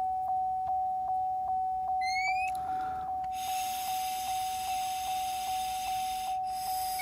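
Truck's key-in-ignition chime dinging steadily, about two and a half dings a second. About two seconds in a short rising chirp sounds. Then a long steady hiss of breath lasting about three seconds follows, as a breath sample is blown into the Intoxalock ignition interlock.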